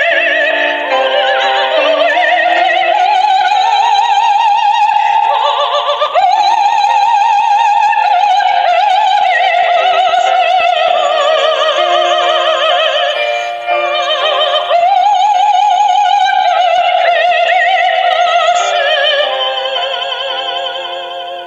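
A soprano singing a slow, lyrical song with wide vibrato over instrumental accompaniment, fading out near the end.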